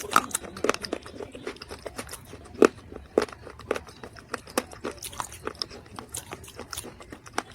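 Dried mud being bitten and chewed: quick, irregular sharp crunches, the loudest about two and a half seconds in.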